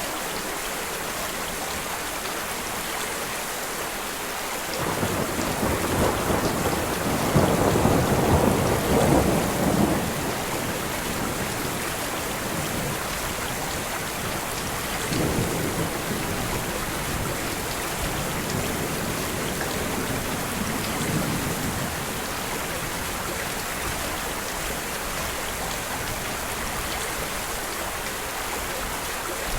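Steady rain with thunder rolling over it: a long, loud rumble about five seconds in that dies away after about five seconds, then fainter rumbles later on.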